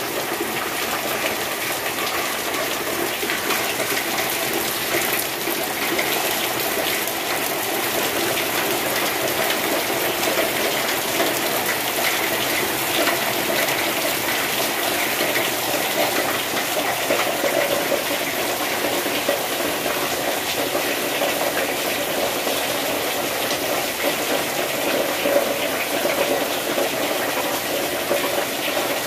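Heavy rain falling steadily, with water pouring off a roof edge in many streams.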